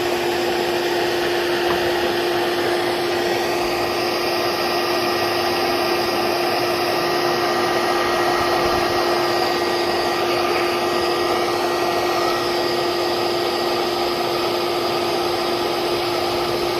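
Vacuum motor running steadily with a constant whining hum, the kind of vacuum used to suck honeybees off a hive during a removal.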